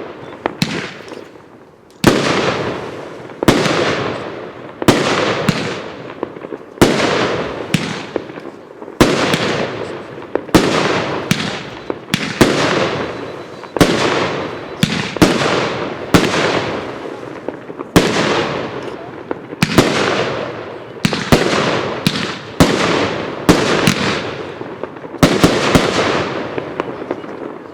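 Royal Bonsai consumer fireworks cake firing shot after shot: a sharp bang about every second or second and a half, each followed by a fading tail of burst noise.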